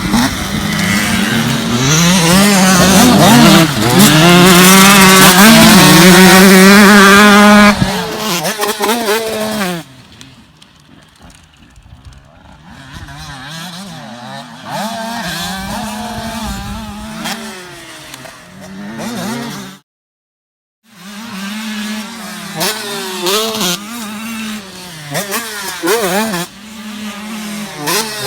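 Motocross bike engine revving up and down through the gears. It is very loud for several seconds, drops to a fainter level about ten seconds in, cuts out completely for about a second, then returns.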